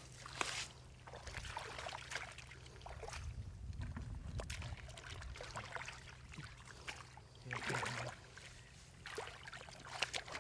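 Water sloshing and splashing in short, irregular bursts, over a steady low hum.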